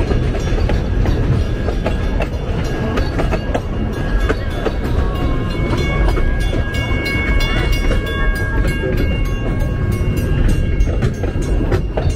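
Puffing Billy steam railway train running along the track: a steady heavy rumble with frequent clicks of the wheels over the rails. A high steady tone comes in about five seconds in and lasts a few seconds.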